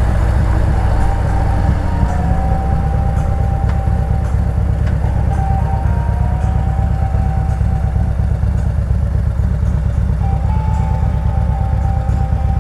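Harley-Davidson V-twin motorcycle engine running at a steady low speed, its firing pulses loud and even.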